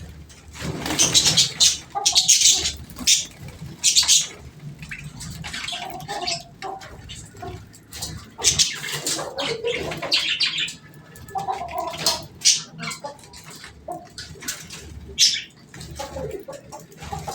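Birds calling in short, irregular bursts, with softer sounds in between.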